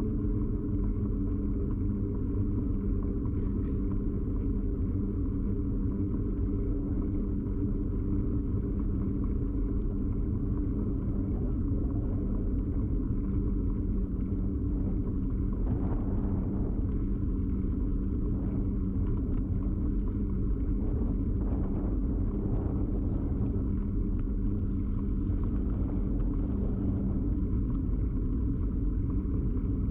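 Steady rumble and drone of a bicycle ride picked up through a camera fixed to the bike's frame: road and drivetrain vibration carried into the mount, with a continuous low humming tone. Twice, a short run of faint high chirps sounds over it.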